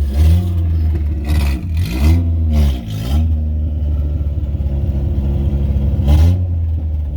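Carburetted car engine revving, its pitch climbing and falling back several times in quick succession, most in the first three seconds and once more near the end, over a steady low drone.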